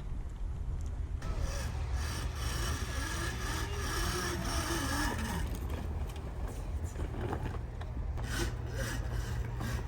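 Electric dirt bike riding on snow: a faint motor whine that rises and falls with the throttle, with scraping and rasping from the chain and the tyres on snow over a steady low rumble.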